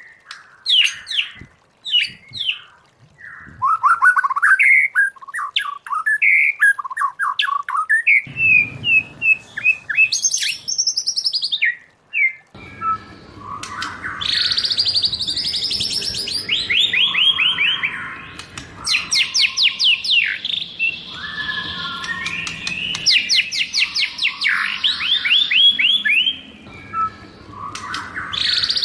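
White-rumped shama singing a varied song of clear whistles, sweeping notes and rapid trills. The phrases come in short bursts for the first dozen seconds, then run on densely and almost without pause.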